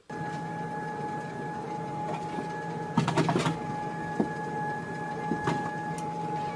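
A machine running steadily, with a constant whine and a low hum, and a cluster of clicks and knocks about three seconds in.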